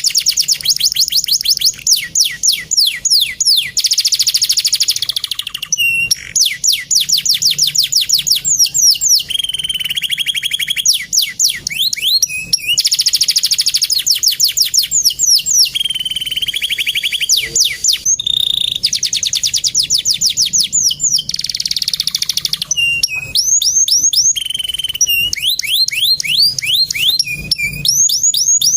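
Male domestic canary singing a long, continuous song of rapid high trills and rolling phrases, broken only by a few brief pauses.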